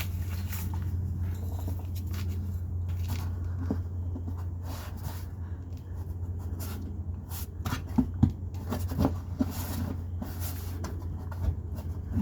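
Clicks and knocks of plastic trim clips and a panel being worked into place, mostly in the second half, over a steady low hum.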